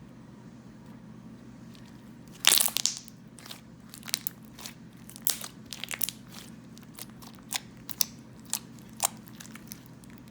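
Slime being squeezed and poked, making sharp crackling clicks and pops. A loud cluster of crackles comes about two and a half seconds in, followed by scattered single pops every half second or so.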